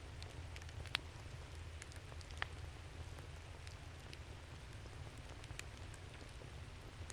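Wood campfire crackling: a scatter of small sharp pops and ticks, with two louder snaps about one second and two and a half seconds in, over a steady low rumble.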